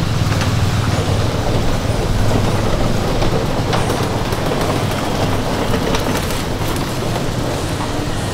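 Vehicle rolling along a rough road, a steady low rumble of tyres and motor with scattered rattles and clicks.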